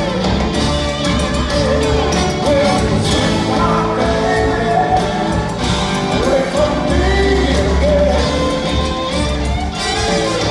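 Live rock-and-roll band playing, loud and steady, with a lead voice or line wavering over the rhythm section.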